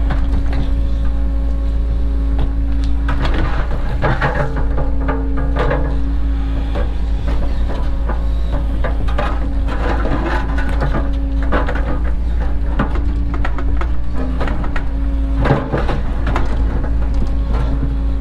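Cat 307 excavator's diesel engine running steadily with a constant hum from the machine, broken several times by clattering and scraping as the bucket works, strongest about 4 to 6 seconds in and again near 10, 12 and 15 seconds.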